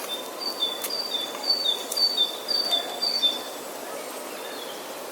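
A small bird singing a repeated song of short, high, clear notes, alternating between two pitches about twice a second, over a steady outdoor hiss; the song stops about three and a half seconds in.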